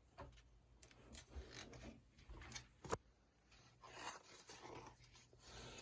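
Near silence, with faint rustling and a single short click about three seconds in.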